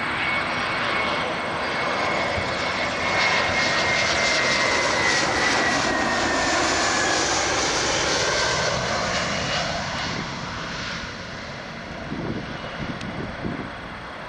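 Etihad Boeing 777-300ER's GE90 turbofans passing close by: a loud jet rush with a high whine that slowly falls in pitch, fading away after about ten seconds.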